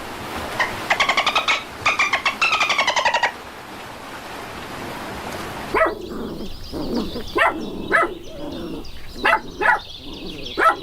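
Animal calls: two quick chattering runs of short pitched calls in the first few seconds, then, after a pause, a series of six short, sharp single calls spaced irregularly.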